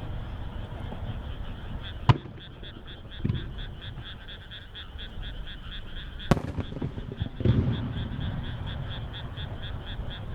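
Frogs calling in a steady rhythm of about four high pulses a second, starting about a second and a half in. Two sharp firework bangs cut through it, about two seconds in and about six seconds in, and low rumbles of shell bursts follow.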